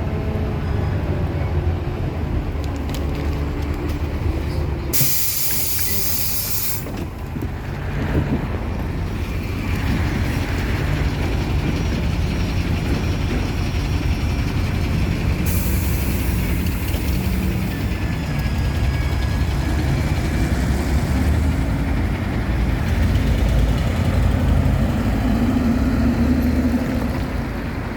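City bus running, with a steady low engine rumble, and two sharp hisses of compressed air venting from its pneumatic system: one about five seconds in lasting nearly two seconds, another about fifteen seconds in.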